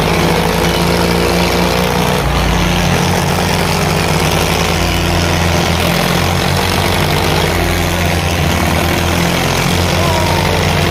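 Tractor diesel engines running steadily with a loud, even drone.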